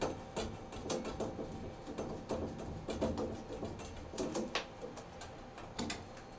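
Irregular light clicks, taps and short rattles of shower valve trim parts being handled and fitted, as the cover plate goes on.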